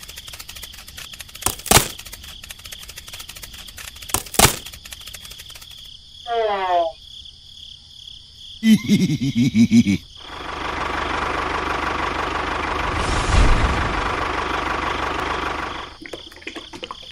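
Dubbed cartoon sound effects: two sharp knocks, a high cartoon voice sliding down in pitch, a short burst of chattering cartoon voice, then about six seconds of steady rushing noise with a low thud in the middle.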